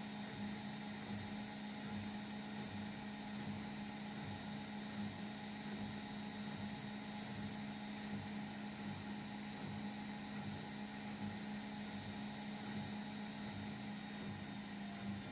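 Indesit washing machine running a component in its diagnostic test mode: a steady motor hum with an even, unchanging tone.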